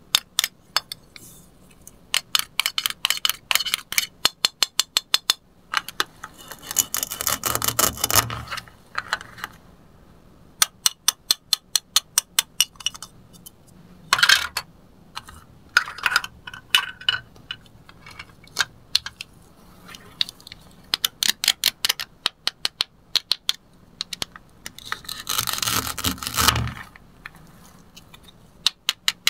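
Toy plastic play-food cutting set being handled: runs of quick plastic clicks as the knife and pieces knock together, with two longer rasping rips, about a quarter of the way in and again near the end, as Velcro-joined toy food halves are pulled apart.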